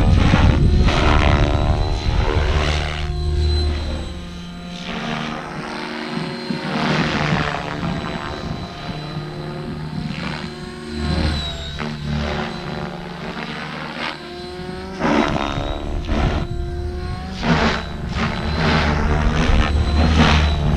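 Mikado Logo 600 electric RC helicopter in flight: rotor and motor sound swooping up and down in pitch and loudness again and again as it manoeuvres, over a steady thin high whine.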